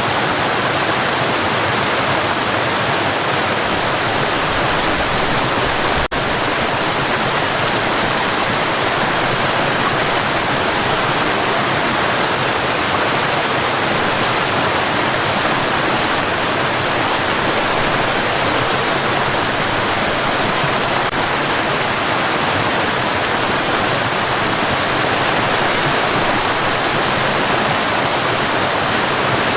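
Steady white noise, an even, unbroken hiss for sleep, with one brief dip in level about six seconds in.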